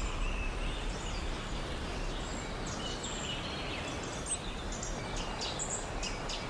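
Outdoor ambience: small birds chirping in short, scattered calls over a steady low background noise.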